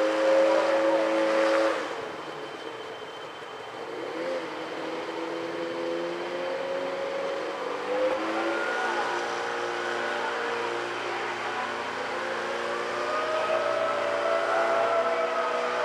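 Emergency vehicle sirens wailing in slow rising and falling glides, over traffic noise. A steady, loud horn blast of several tones cuts off about two seconds in.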